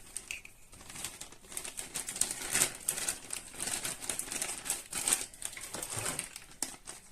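Plastic packaging crinkling and rustling in irregular crackles while the vacuum cleaner's accessories are handled and taken out of their wrapping.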